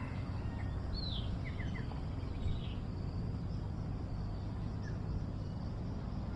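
Outdoor ambience: a steady low rumble with a few short, high bird chirps about a second in and again near two and a half seconds.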